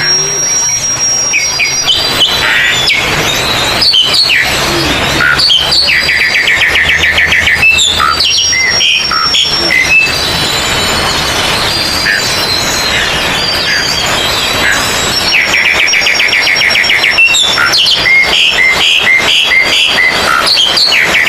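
Many oriental magpie-robins singing at once, a dense mix of whistles, chirps and fast trills. A fast rattling trill comes twice, about six seconds in and again about fifteen seconds in.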